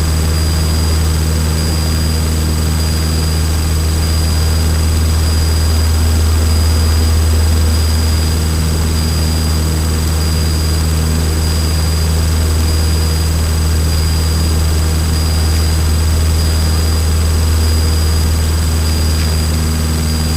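Light single-engine propeller airplane's piston engine running steadily at full power in the climb after a touch and go, heard as a loud, unchanging low drone inside the cockpit. A thin, steady high-pitched whine sits over it.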